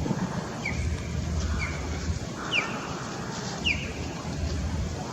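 A bird calling in short, sharp chirps, about one a second, over a steady low rumble.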